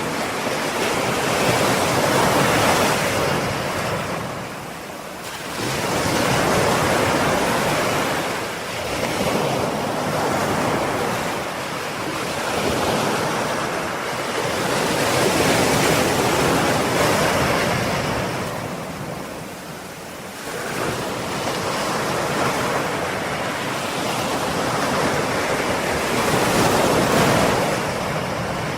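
Ocean waves breaking and washing on a shore, the surf swelling and easing in slow surges every few seconds.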